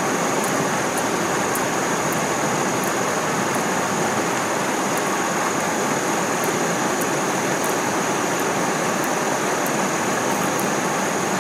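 Steady rushing of stream water below a waterfall, with a thin, steady high-pitched tone and scattered faint high ticks over it.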